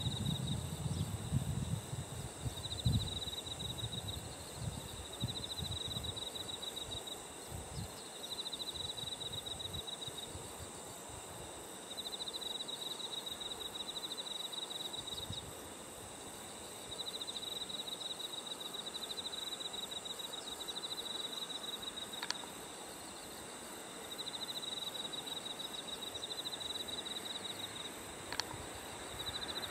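Insects singing in the field: a fast pulsed trill repeating in bouts of two to three seconds with short gaps, over a steady high-pitched buzz. A low rumble fades out over the first several seconds, and two brief sharp chirps come late on.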